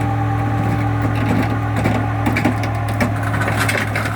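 Tow truck engine running steadily with a low hum while the car is being hooked and pulled onto the bed. From about a second in, dense irregular crackling and scraping joins it.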